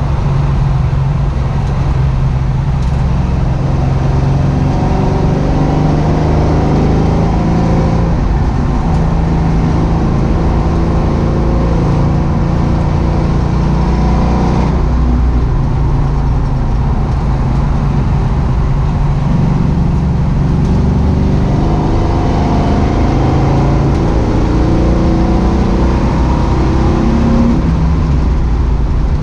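A 1967 Ford Mustang's swapped-in 5.0-litre V8, heard from inside the cabin at racing speed. The engine note rises and falls as the car accelerates and lifts through the corners, with a sudden drop about halfway through.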